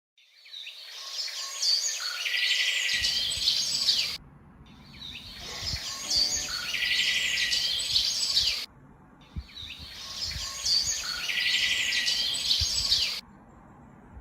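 Recorded birdsong, a dense mix of high chirps and trills. The same four-second stretch plays three times, each ending abruptly with a short gap between.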